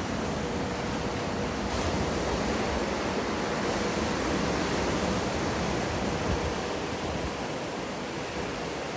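Steady rush of wave-pool surf, with wind noise on the microphone; it swells a little in the middle and eases slightly toward the end.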